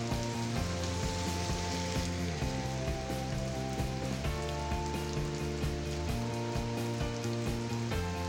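Steady hiss of heavy rain on a wet road, with music over it: held chords that change every second or so, and a steady beat.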